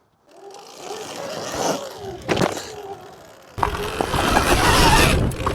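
Sur-Ron Ultra Bee electric dirt bike riding, its motor giving a faint wavering whine. There is a sharp knock a little over two seconds in, and from about three and a half seconds loud wind rush on the microphone.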